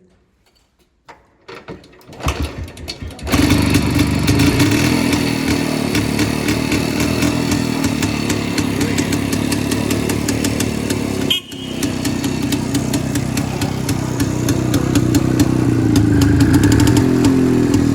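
Vintage Jawa two-stroke motorcycle engine, converted to electronic ignition, being kickstarted: about a second in it coughs and sputters, catches around three seconds in and then runs steadily. About eleven seconds in the sound drops out briefly before it runs on.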